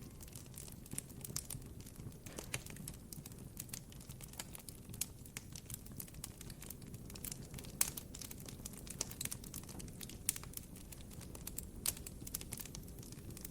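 Campfire crackling: irregular sharp snaps and pops, some louder than others, over a low steady rumble of the burning fire.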